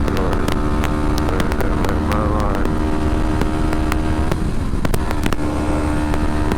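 Kawasaki Ninja 250R parallel-twin engine running at steady cruising revs under way, heard from the rider's helmet, with a steady low rumble of wind and road and scattered sharp clicks. The engine note breaks up briefly about four and a half seconds in, then settles again.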